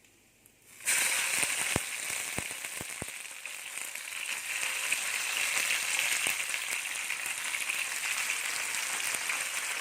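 Masala-coated mackerel pieces hitting hot coconut oil in a frying pan: a loud sizzle starts suddenly about a second in and carries on steadily, with a few sharp clicks just after it starts.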